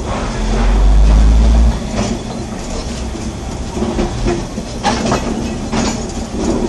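A train running on its track, heard from inside its driver's cabin, with a few sharp clicks from the wheels and rails. A loud low rumble starts about half a second in and stops abruptly under two seconds in.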